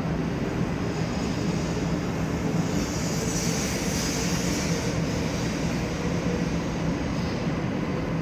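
Shinkansen bullet train running with a steady rushing noise and low hum, a higher hiss swelling for a couple of seconds about three seconds in.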